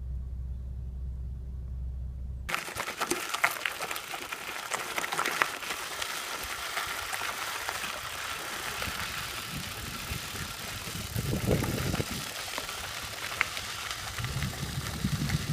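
A steady low hum for the first couple of seconds, then the noise of a bicycle ride picked up by a camera mounted on the bike: a constant rush of wind and road noise with frequent sharp rattles and knocks from the bumpy trail.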